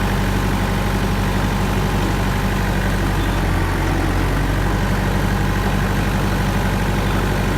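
Kubota GL367 tractor's diesel engine running at a steady, even speed.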